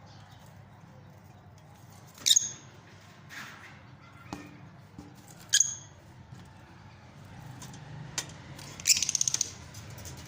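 Fischer's lovebirds giving sharp, high-pitched calls: single calls about two and five seconds in, then a quick run of about ten chirps near the end. A low steady hum runs beneath.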